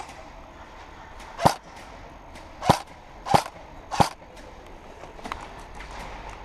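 Airsoft gun firing four single shots, sharp pops spaced unevenly over about two and a half seconds, with a few faint clicks afterwards.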